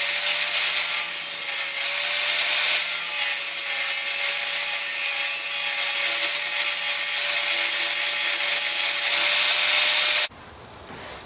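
Power cutoff tool with an abrasive wheel cutting into 5160 spring steel: a steady motor whine over loud grinding noise, stopping suddenly about ten seconds in.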